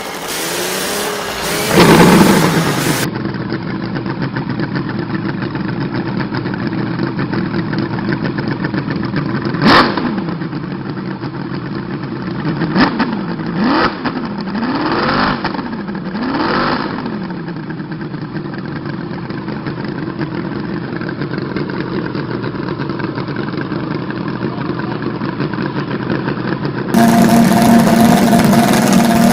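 Model engines running. The main run is a steady drone with four or five quick throttle blips between about 10 and 17 seconds, the pitch rising and falling each time. A different, louder engine cuts in near the end.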